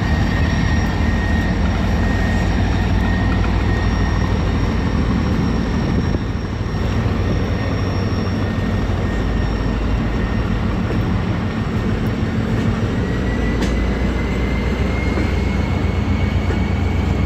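Diesel train rumbling steadily, with a thin high whine that rises slightly in pitch near the end.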